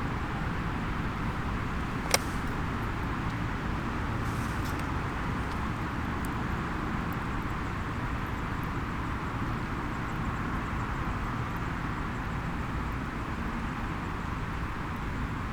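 Small wood fire in a mini fire pit, with a single sharp pop about two seconds in and a few faint ticks, over a steady rushing background noise.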